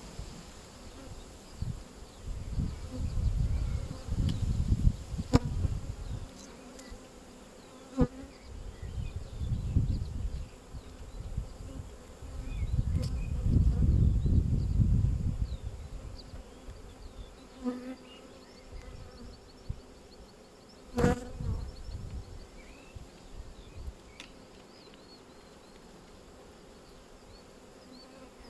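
Honeybees buzzing around an opened hive during a frame-by-frame inspection, a steady hum throughout. Low rumbling handling or wind noise comes and goes in the first half, and a few sharp knocks sound, the loudest about 21 seconds in.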